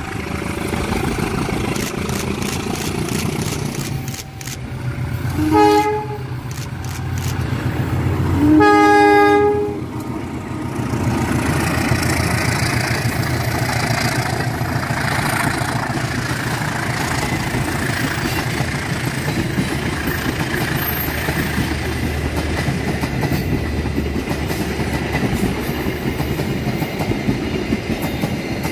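Diesel locomotive approaching with its engine running, sounding its horn twice: a short blast about five seconds in and a longer, louder one a few seconds later. The train then passes close by, its wheels clattering over the rail joints as the coaches roll past.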